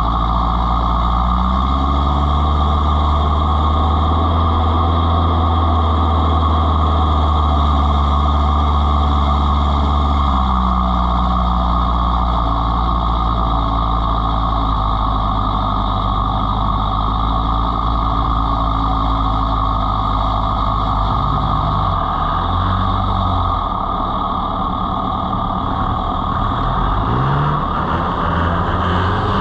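Off-road 4x4 engine running at low speed, its pitch holding and then shifting in steps, with quicker rises and falls near the end.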